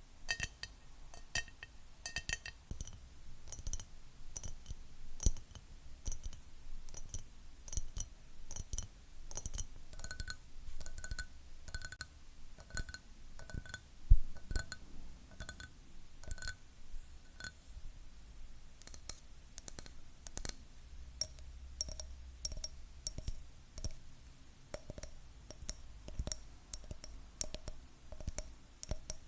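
Fingernails tapping quickly and continuously on hard objects, many of the taps leaving a short clear ringing note. One single knock about 14 seconds in is much louder than the rest.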